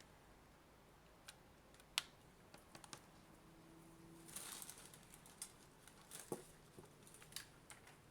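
Near silence with scattered small clicks and taps from handling a charger cable and plug, the sharpest about two seconds in, and a brief rustle about halfway through.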